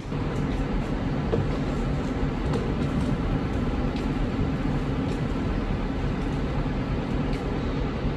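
Train moving through the station: a steady, fairly loud rumble with a low hum.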